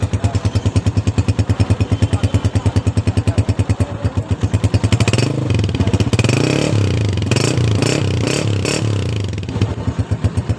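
Honda CG 125 motorcycle's single-cylinder four-stroke engine idling with an even exhaust pulse, then revved with several throttle blips from about five seconds in, dropping back to idle near the end.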